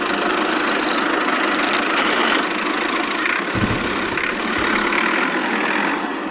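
A small motor running steadily, with a brief low thump a little past halfway.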